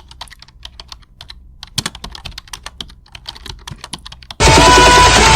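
Quick, irregular light clicks, then loud music cuts in abruptly about four seconds in.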